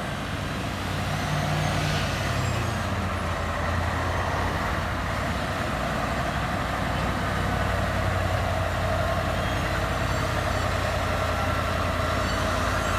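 Heavy truck's diesel engine pulling under load on a steep climb: a steady low drone that grows a little louder about a second in.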